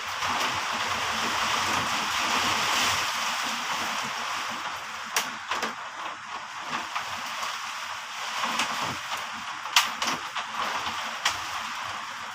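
Heavy rain falling in wind, a dense hiss that swells over the first few seconds and then eases, with several sharp taps of drops striking a hard surface in the second half.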